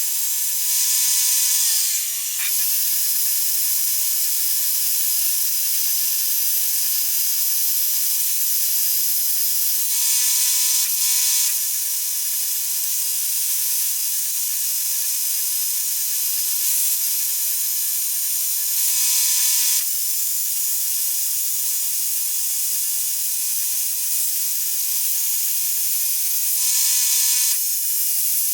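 Power tool running continuously, with louder stretches of a second or two near the start, about ten seconds in, about nineteen seconds in and near the end.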